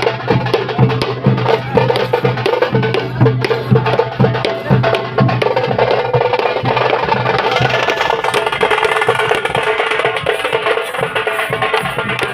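Drums played in a fast, dense rhythm: the percussion played in Muharram tazia processions, with many quick sharp strokes over a steady low hum.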